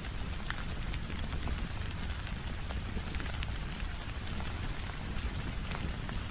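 Steady rain on a window mixed with a wood fire crackling in a fireplace, giving an even rush of rain with many scattered sharp crackles.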